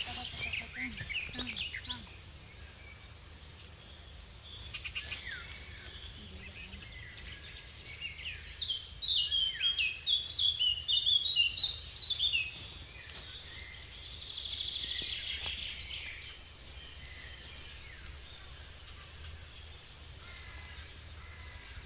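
Small birds chirping and singing, with a busy run of quick high chirps mid-way through and a short buzzy trill soon after, over a steady low outdoor rumble.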